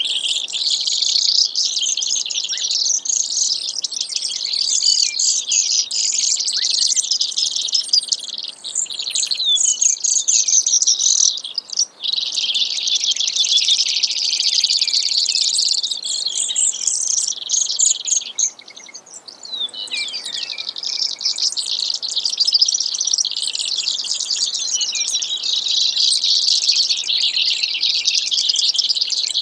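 Brewer's sparrow singing: long runs of fast, buzzy trills, high-pitched and almost unbroken, with two brief pauses, one about twelve seconds in and one around twenty seconds in.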